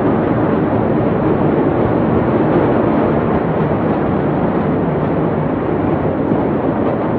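A loud, steady rumbling roar with no separate bangs or tones.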